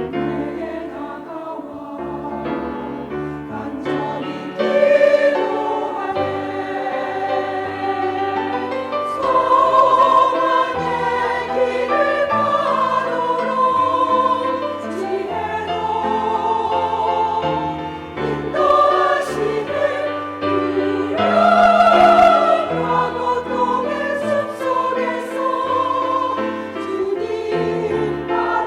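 Church choir singing a sacred anthem in several parts, sustained chords that swell louder in places.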